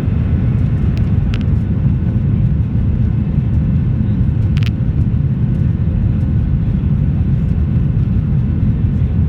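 Cabin noise of a Boeing 737-800 in flight: the steady, loud low rumble of its CFM56-7B engines and the airflow past the fuselage, with a faint steady hum. A brief sharp click about four and a half seconds in.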